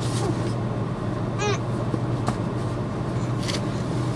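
Vehicle engine idling with a steady low hum. A short, high chirping call comes about a second and a half in.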